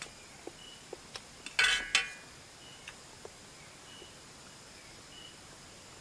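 Eating utensil clinking against a dish: a few soft clicks, then two sharp, ringing clinks close together about one and a half to two seconds in.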